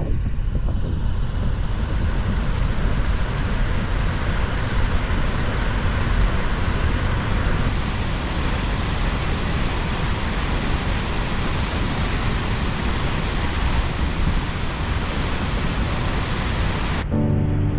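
Large waterfall rushing, a loud, steady, even roar of falling water with no breaks. It cuts off suddenly near the end as music starts.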